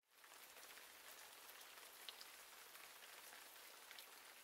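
Faint, steady patter of light rain that fades in at the start, with a few louder drops.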